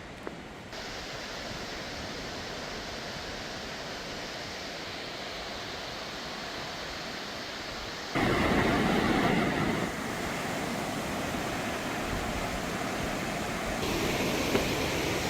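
Steady rushing noise of a fast, swollen river in flood. It jumps louder about eight seconds in, eases a couple of seconds later, and rises again near the end.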